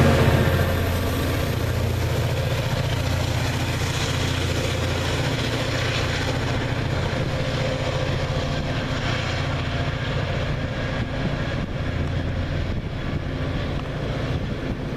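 Passing passenger train: a diesel locomotive's engine drone and wheel-on-rail noise, loudest at the start and slowly fading away.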